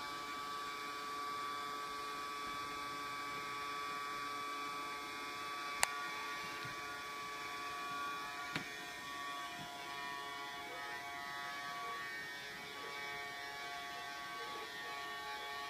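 Vacuum cleaner running steadily with an even motor whine. There are two sharp clicks, about six and eight and a half seconds in.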